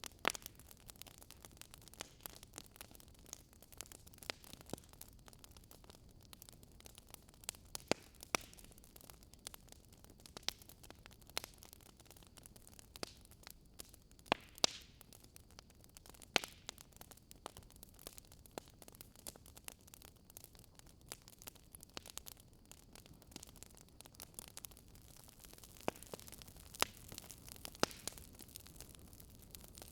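Campfire wood burning: irregular crackles and sharp pops over a faint steady hiss, with a few louder pops scattered through.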